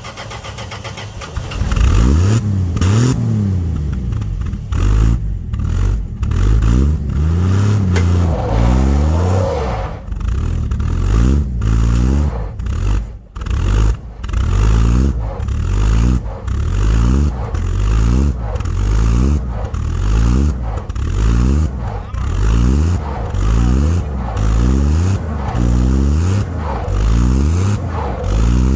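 Dodge D100's slant-six engine revving up and falling back again and again, in a regular rise and fall about once a second in the second half, as the truck tries to pull free of ice frozen around its tires.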